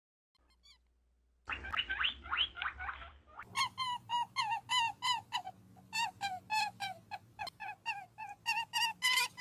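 Near silence, then about a second and a half in a short flurry of overlapping animal calls, followed by a run of short, high, pitched calls repeated about four to five times a second, each dipping slightly in pitch.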